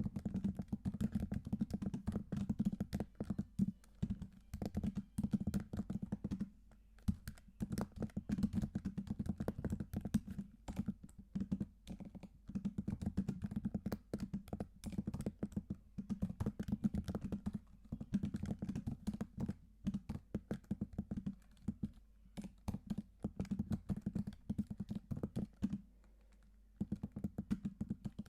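Computer keyboard being typed on in quick, continuous runs of key clicks, broken by two short pauses, one about a quarter of the way in and one near the end.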